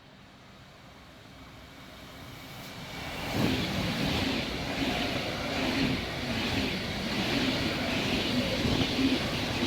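A train approaching the station, growing louder over about three seconds and then running past steadily, with a beat repeating roughly twice a second.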